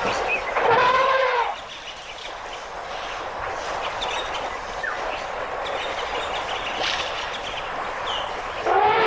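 Elephant trumpeting: a loud call rising and falling in pitch about half a second in, lasting about a second, then another call starting near the end. Between the calls there is a steady noisy background with a few faint bird chirps.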